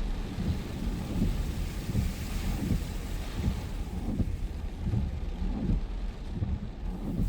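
Heavy rain and strong gusting wind, the gusts buffeting the microphone in an uneven low rumble under a steady rushing hiss of rain; the hiss swells about two seconds in.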